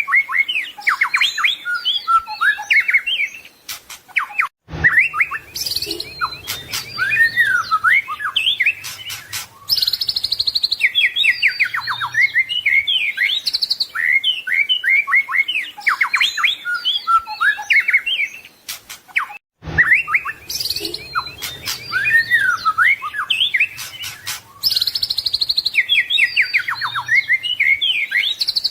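White-rumped shama (murai batu) singing continuously: a fast, varied stream of whistles, trills, sweeps and chattering phrases full of mimicked song. The song breaks off twice, briefly, and the same passage seems to repeat about every fifteen seconds.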